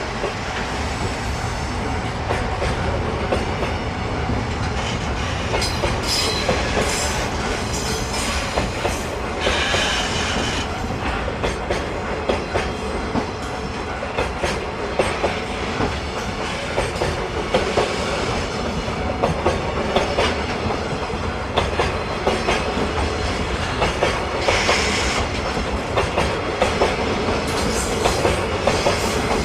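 Freight train wagons rolling past, wheels clacking over rail joints in an uneven run of clicks, with a few brief high wheel squeals.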